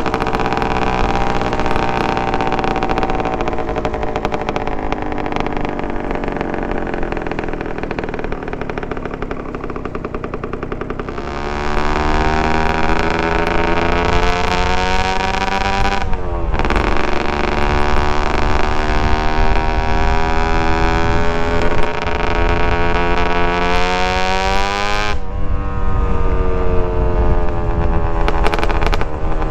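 Suzuki TSR 125's single-cylinder two-stroke engine with a DEP exhaust, running steadily at first. About a third of the way in it gets louder and the pitch climbs, dropping sharply twice as it shifts up a gear, then climbing again.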